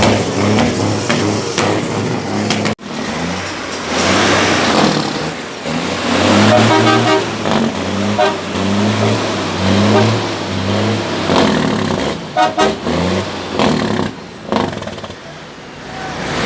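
Heavy truck engines running and revving, with a brief drop-out about three seconds in.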